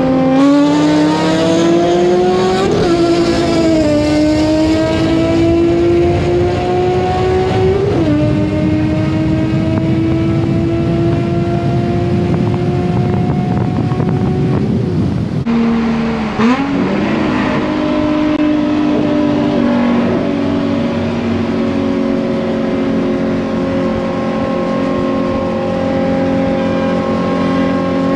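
Nissan 350Z's 3.5-litre V6 under acceleration. The engine note climbs through each gear and drops sharply at each upshift, about four times in the first half, then settles into a steadier note.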